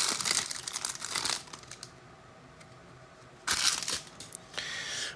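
Foil trading-card pack wrapper crinkling and tearing as it is opened by hand. The crinkling comes in bursts, with a quieter gap in the middle.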